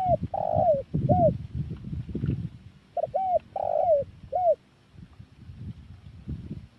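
Spotted dove cooing: the tail of one song phrase at the start and a full phrase about three seconds in, each two short arched coos, a longer rolling coo and a final short coo. Bursts of low noise sit under the calls.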